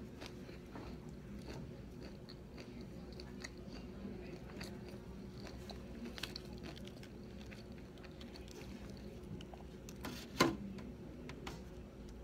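Close-up chewing and soft crunching of food, with small clicks and mouth noises, and one sharper knock about ten seconds in.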